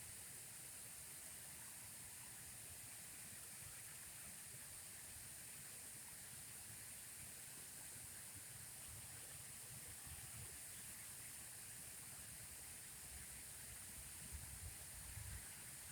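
Faint, steady hiss of running water, with a few soft low rumbles about ten seconds in and again near the end.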